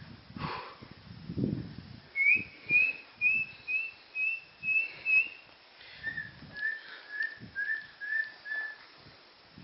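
A bird calling in short, evenly spaced whistled notes, about two a second. A run of seven higher notes comes first, then after a brief pause a run of about six lower notes.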